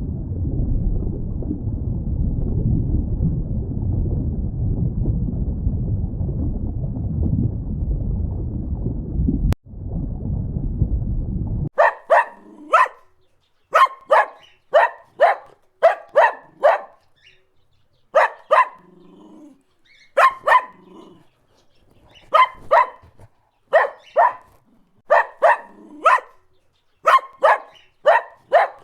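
A steady low rumble for roughly the first twelve seconds, which stops abruptly; then a dog barking over and over in quick runs of two to four barks.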